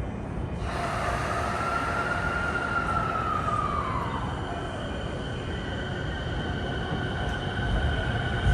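Tokyo Waterfront Area Rapid Transit 70-000 series electric train starting to pull away: a whine from its traction motor drive sets in about a second in, holds, then falls in pitch, and gives way to steady high tones over a low rumble.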